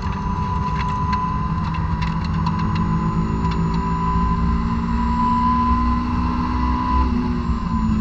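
2006 Honda S2000's four-cylinder engine on stock exhaust, at full throttle and high revs, heard from inside the cabin, its pitch rising slowly as the car accelerates. A steady high tone runs over the engine sound.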